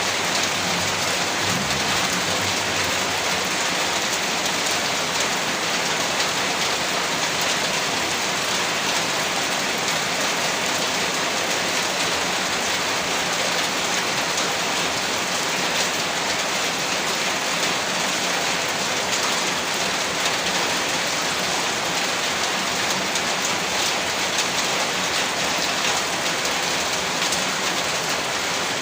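Heavy rain falling steadily on a roof: a dense, even hiss of drops. There is a brief low rumble in the first few seconds.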